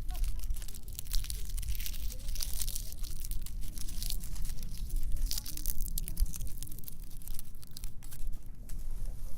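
Dry fallen leaves crunching and rustling in a dense, irregular crackle, with a low rumble underneath.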